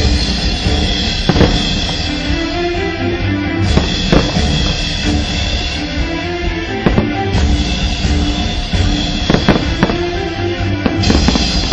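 Loud music with a heavy drum beat, with several irregular bangs of fireworks going off over it.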